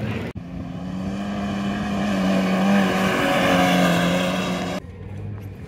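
Rally 4x4's engine revving hard as it speeds past on sand, growing louder as it nears, its pitch stepping down about three seconds in and climbing again. The sound starts and stops abruptly, leaving quieter outdoor background near the end.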